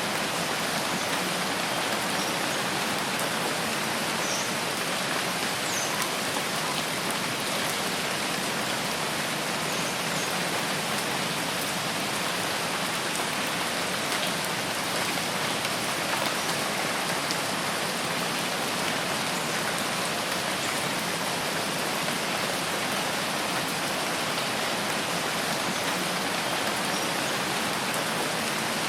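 Steady rain falling, an even hiss of many drops that does not change in level. A few faint, short high chirps come through now and then.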